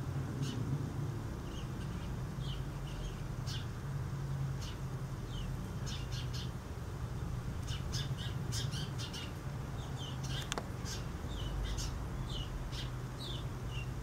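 Small birds chirping: many short, high notes, scattered and at times several a second, over a steady low hum.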